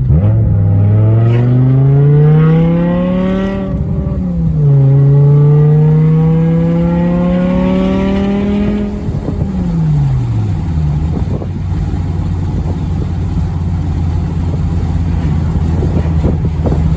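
BMW M6 E64 convertible's 5.0-litre V10 accelerating hard, its pitch climbing through a gear. There is an upshift about four seconds in, then it pulls again until the driver lifts off and it falls back to a steady low drone, with a few sharp ticks near the end.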